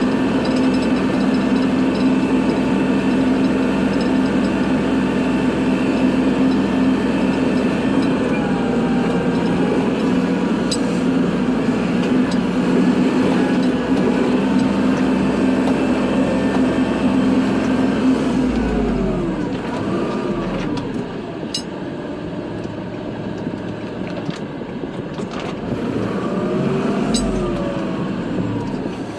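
Kubota tractor's diesel engine running steadily under load while plowing snow. About 18 seconds in it drops to a lower, quieter note, and rising-and-falling whines come and go twice.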